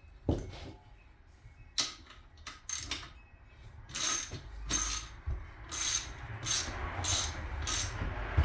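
A ratchet wrench clicking in short repeated strokes: a few scattered ones at first, then a steadier run of about one stroke every half second to second from midway on.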